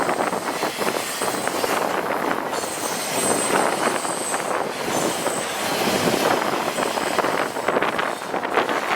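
Cars of a long intermodal freight train rolling past, a steady rumble with rapid irregular clatter of wheels on the rails. A thin high tone comes and goes over it.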